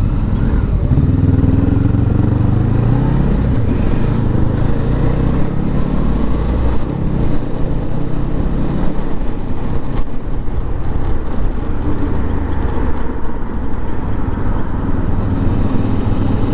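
Motorcycle engine running while riding, rising in pitch as it accelerates about a second in, then holding steady, with steady wind rush.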